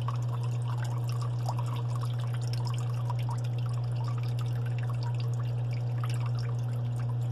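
Water from a dishwasher's disconnected drain hose pouring and splashing into a 5-gallon plastic bucket while the dishwasher runs, over a steady low hum.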